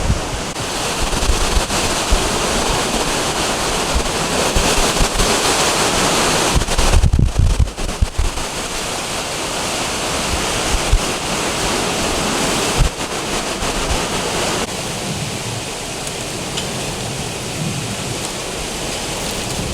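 Hurricane wind and heavy surf: a loud, steady rush of wind and breaking waves, with gusts buffeting the microphone, hardest about seven seconds in, and easing slightly over the last few seconds.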